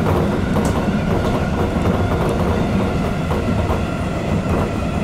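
JR Shikoku local electric train running on the Yosan Line, heard from behind the driver's cab. There is a steady rumble of wheels on rail, with occasional light clicks.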